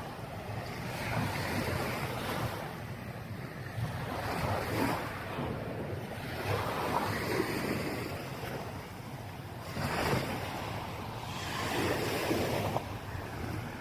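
Small waves breaking and washing on a sandy beach, swelling and falling every few seconds, with wind rumbling on the microphone.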